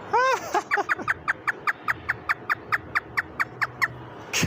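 African grey parrot imitating hysterical human laughter: a long, rapid string of short 'ha' notes, about five or six a second, stopping shortly before the end.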